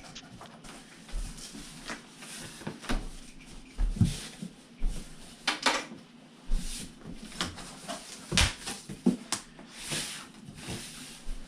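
Cardboard shipping box being opened and handled: irregular rustles, scrapes and light knocks of flaps and packing.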